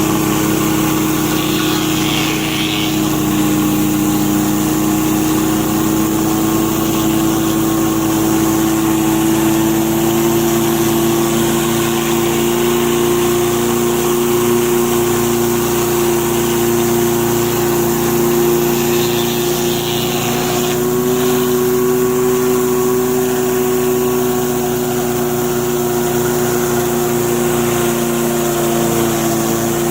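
Small-engine pressure washer running steadily under load, driving a rotating surface cleaner over concrete, with the hiss of the water spray over a constant engine drone.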